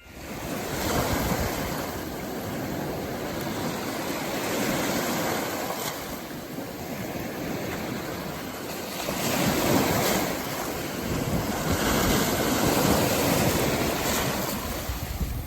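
Rough, storm-driven sea after a typhoon: surf breaking and washing in continuously, swelling louder every few seconds as bigger waves come in.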